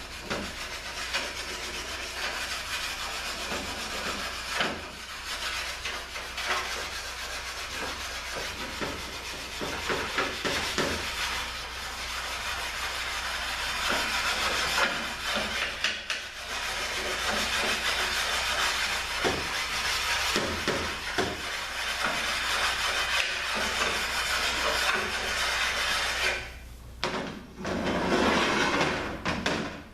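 ZF 6HP26 valve body half being rubbed back and forth on a flat sanding stone to true its mating surface: a continuous gritty scraping with uneven strokes, pausing briefly twice near the end.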